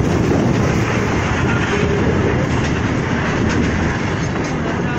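Freight train wagons rolling past during shunting: a steady, loud rumble with wheels clattering over the rail joints.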